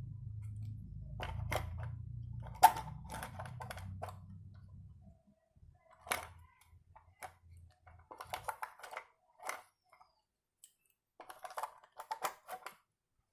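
Small hard parts clicking and rattling as they are handled, in several short clusters, with one sharp click about two and a half seconds in. A low hum runs under the first five seconds and then stops.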